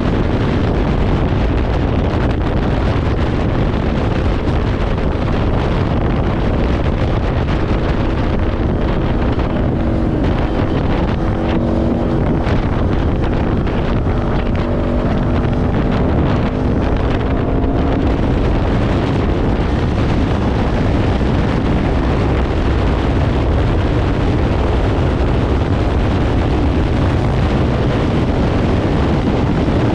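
Kawasaki Ninja 500's parallel-twin engine running through a Leo Vince aftermarket exhaust while riding, under heavy wind noise on the microphone. The engine pitch shifts up and down between about 10 and 18 seconds in.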